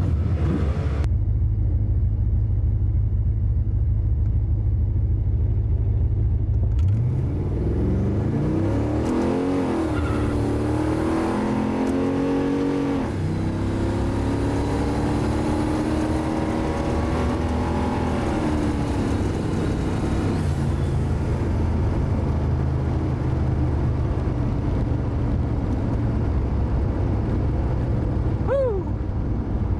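Chevy small-block 350 V8 heard from inside the car's cabin on a drag-strip pass. It idles at the line for several seconds, then launches and revs up hard, with breaks in the rising engine note at the gear shifts, for about a dozen seconds. Then it lifts off and runs steadily at lower revs.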